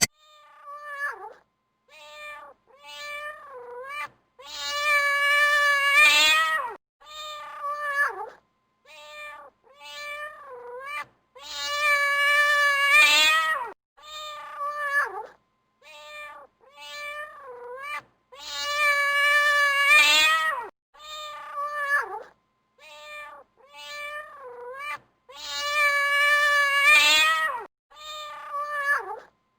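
Domestic cats meowing: runs of short meows, with a long, louder, wavering meow about every seven seconds, the sequence repeating over and over.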